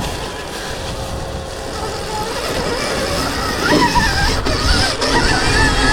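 2024 Stark Varg electric dirt bike's motor whining over a low rumble. From about halfway through, the whine's pitch rises and falls with the throttle.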